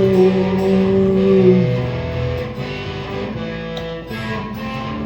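Guitar playing an instrumental passage between verses, its chords strummed and left ringing.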